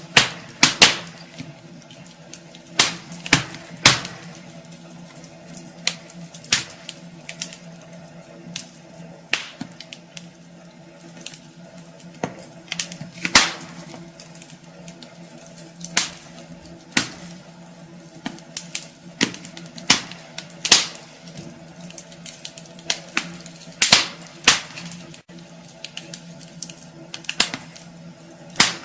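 Wood fire burning in a fireplace: irregular sharp crackles and pops, about one a second, over a steady hiss.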